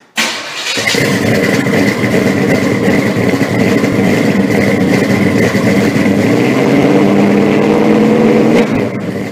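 A car engine running loud and steady with a strong low note, starting suddenly and cutting off abruptly at the end.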